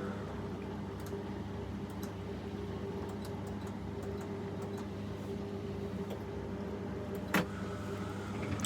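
Washing machine running with a steady motor hum, faint scattered ticks, and one sharp click about seven seconds in.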